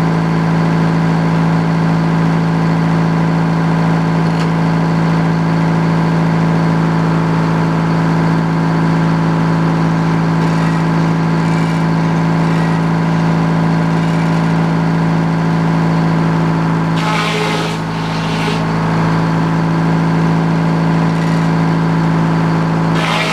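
Sawmill engine running steadily at a constant speed, with a couple of short noisy bursts about three-quarters of the way through.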